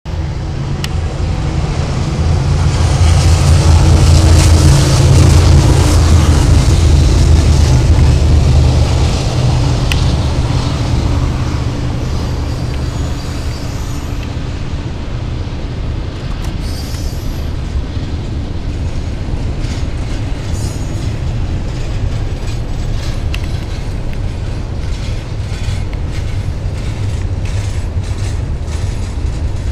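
CSX double-stack intermodal freight train passing: a deep rumble, loudest about three to nine seconds in, then the steady rolling of the container cars. From about halfway on, the wheels make a run of rapid sharp clicks.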